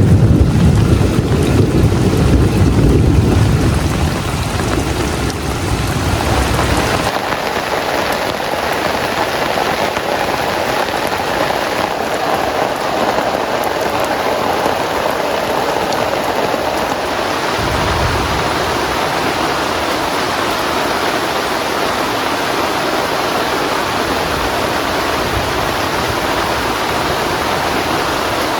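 Heavy rain falling steadily, with a low rumble of thunder through the first several seconds that cuts off sharply about a quarter of the way in.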